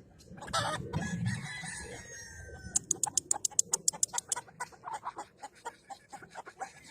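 Gamefowl rooster crowing once, a call about two seconds long, followed by a fast run of sharp clicks or taps.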